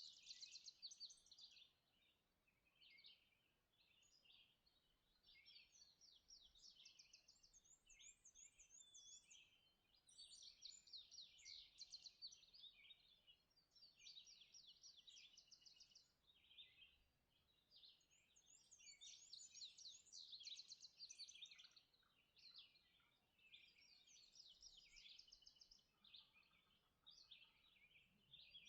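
Faint dawn chorus of songbirds: rapid, high chirping and trilled phrases overlapping almost continuously, with brief lulls.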